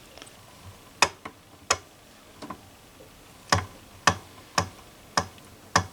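Sharp clicks from the Grundig console radio's tuning mechanism being worked by hand, about nine of them, the later ones roughly every half second. The mechanism is quite noisy; its tuning flywheel needs adjusting.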